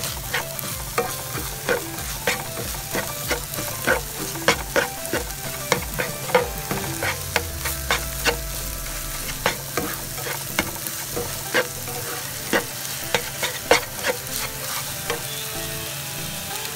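Scrambled egg sizzling in a nonstick frying pan while a plastic spatula stirs and chops it, with steady frying hiss and irregular clicks and taps of the spatula on the pan, several a second.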